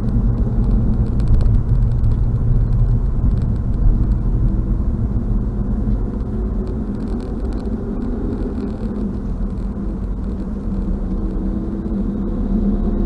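Car driving, heard from inside the cabin: a steady low rumble of road and engine noise, with a faint tone that rises slowly in pitch over the second half.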